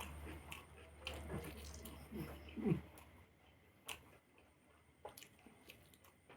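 A person chewing food, with soft wet mouth sounds and scattered small clicks. A brief low sound from the mouth or throat is the loudest moment, a little under three seconds in.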